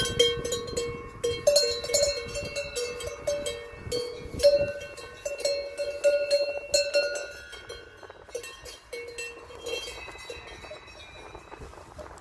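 Cowbells clanking irregularly, several bells of different pitches ringing together. The clanking is busiest for the first seven seconds or so, then thins out and grows fainter.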